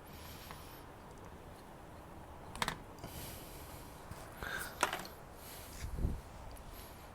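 Handling noises as a fuel pipe is pushed and wiggled onto a hedge trimmer's carburettor: a couple of sharp clicks, some rustling, and a low thump near the end.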